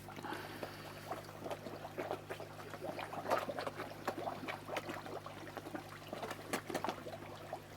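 Koi feeding at the pond surface: many small, irregular splashes and slurps, over a steady low hum.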